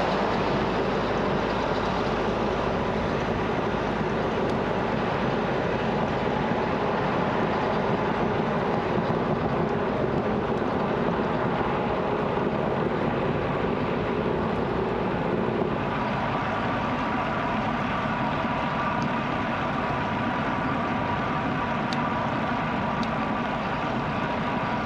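Wind rushing over a bike-mounted action camera's microphone, with bicycle tyres rolling on the road, a steady noise throughout. About two-thirds of the way through, the sound changes abruptly to a lighter rush with faint steady tones in it.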